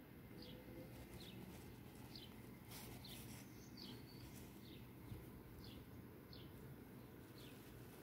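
Faint, low room hum with a small bird chirping one short falling note over and over, a little more than once a second.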